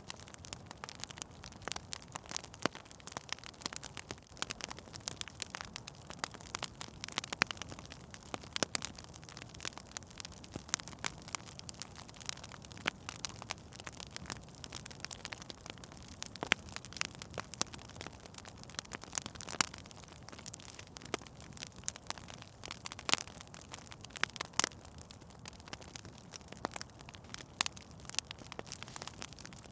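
Wood fire burning in a fireplace: a steady soft hiss with frequent irregular crackles and pops.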